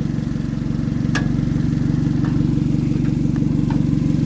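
Car engine idling steadily, with a few light clicks over it.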